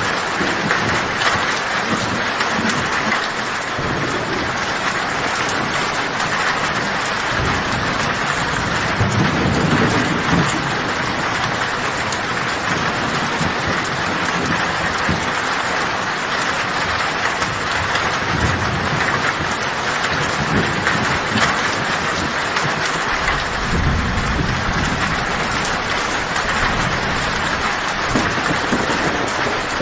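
Heavy rain falling steadily on a tin roof, with low thunder rumbling about a third of the way in and again through the last several seconds.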